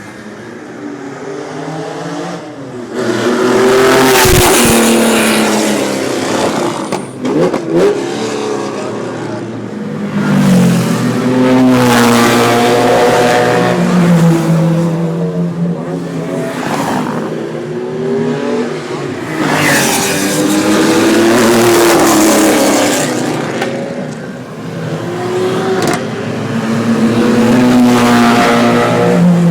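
Sports cars being driven hard past one after another, engines revving with the pitch sweeping up and down. There is a loud pass about every eight seconds.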